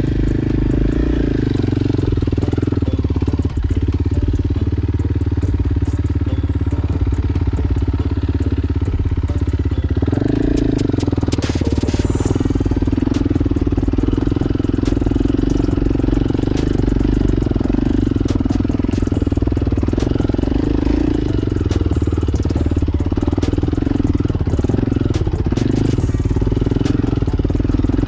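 Motorcycle engine running steadily under way, its note shifting about ten seconds in.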